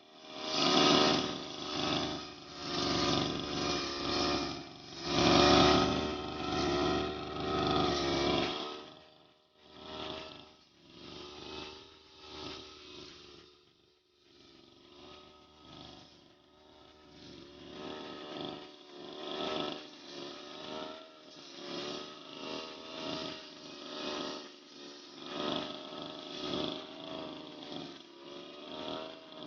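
Brush cutter engine cutting grass, its pitch and loudness rising and falling about once a second as the blade sweeps back and forth. It is louder for the first eight seconds or so, then quieter.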